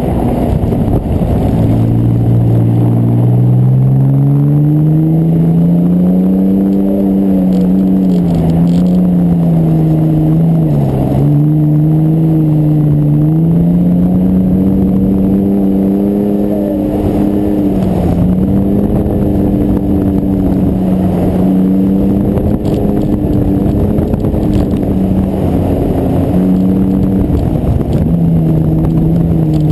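Mitsubishi 3000GT's V6 engine running under load as the car drives on snow and ice, heard from a camera mounted outside on the door. Its pitch climbs over the first several seconds, then holds high with brief dips as the throttle is eased and reapplied, over a steady rush of noise.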